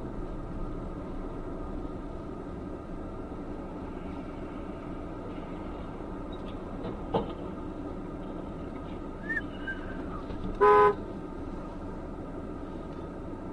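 Steady road and engine noise of a car driving, with one short car horn toot about eleven seconds in, the loudest sound; a sharp click a few seconds earlier.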